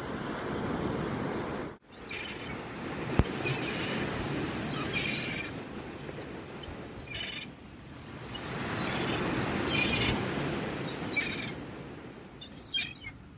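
Seagulls calling repeatedly over the steady wash of sea surf. The sound cuts out for an instant about two seconds in, and there is one sharp click about three seconds in.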